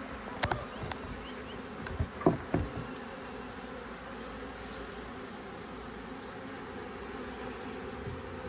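Honey bee swarm buzzing steadily: the hum of a large, very active colony in an opened swarm trap. A few sharp knocks sound in the first three seconds.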